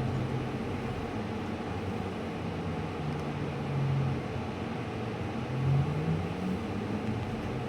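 Cabin noise inside a 2018 New Flyer Xcelsior XT40 trolleybus with Vossloh Kiepe traction motors, running steadily with a low motor hum that swells twice and rises in pitch about three-quarters of the way through as the bus speeds up.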